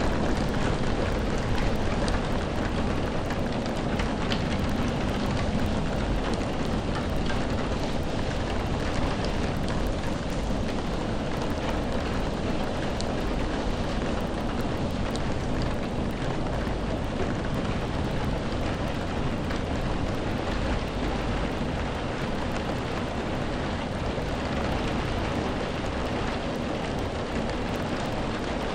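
Steady rain: an even, continuous hiss with scattered drop ticks over a constant low rumble.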